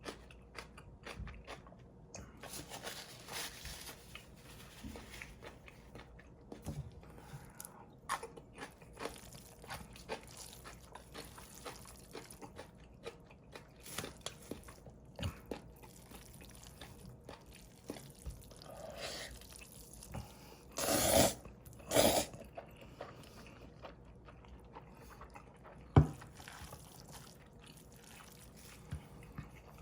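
Close-miked eating of cold bibim noodles: wet chewing with many small mouth clicks. Two louder noisy bursts come a little past two-thirds of the way in, and there is a sharp click near the end.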